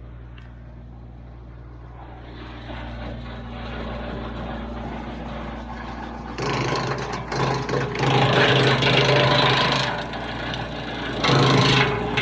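Kubota BX23s tractor's three-cylinder diesel running and driving a PTO-powered Wallenstein BX36 wood chipper. The engine note rises about two seconds in. From about six seconds in the sound turns loud, rough and uneven in surges as branches go through the chipper, easing near ten seconds and surging again near the end.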